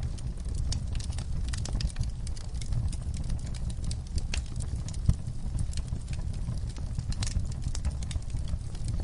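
Wood fire in a fire pit crackling, with frequent irregular sharp pops from the burning logs and coals over a steady low rumble; one louder pop about five seconds in.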